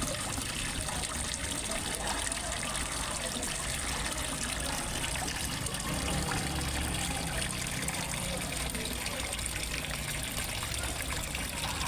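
Water from a fish pond's small waterfall trickling and splashing steadily.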